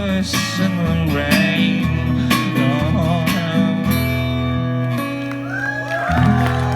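Live acoustic country music: the song's closing bars, with singing over strummed acoustic guitar for the first few seconds, then a final chord held and ringing out.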